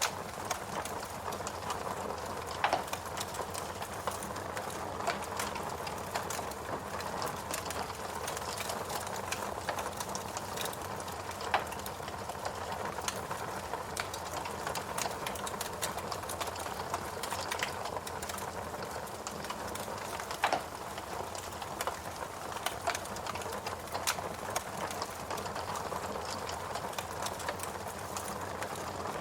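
Fireplace crackling: a steady hiss with many small scattered crackles and a few louder pops.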